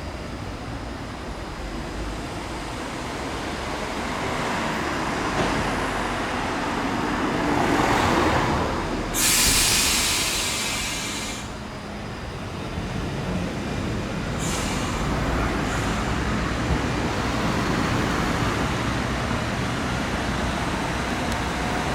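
Historic Trieste–Opicina tram running on its rails with a steady rumble that grows louder. A loud hiss lasts about two and a half seconds starting around nine seconds in, and a shorter one comes around fourteen seconds.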